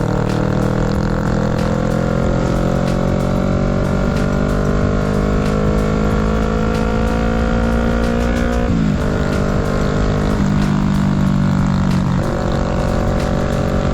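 Kawasaki Z650's parallel-twin engine under way: the engine note climbs steadily for about nine seconds as the bike accelerates in one gear, then drops sharply at a gear change, and shifts pitch a couple more times near the end, with rushing noise throughout.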